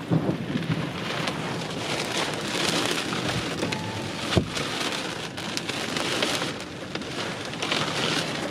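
Rain falling steadily during a thunderstorm, with scattered drops tapping close by and one sharper tap about four seconds in.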